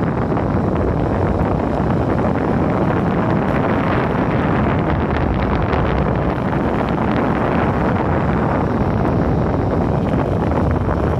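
Wind buffeting the phone's microphone while riding an electric skateboard at speed: a loud, steady rush that drowns out everything else.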